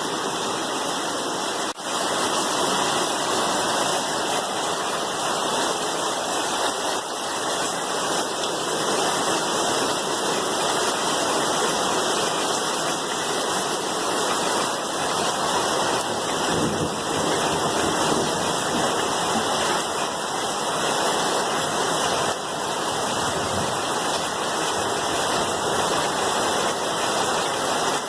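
Steady heavy rain, an even hiss without pauses, with a brief dip in level about two seconds in.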